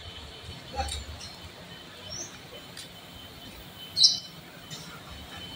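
Birds chirping a few times over steady outdoor background noise, with the loudest chirp about four seconds in.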